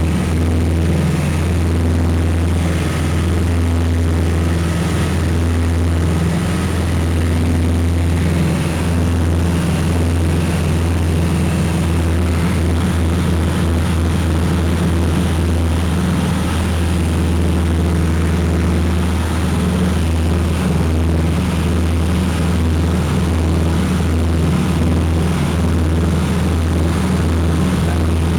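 Piper Seneca's two piston engines and propellers droning steadily, heard from inside the cabin, with a slow pulsing throb.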